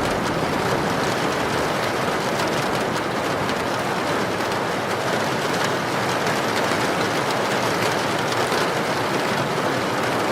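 Heavy rainstorm with wind: a dense, steady hiss of rain that neither rises nor falls.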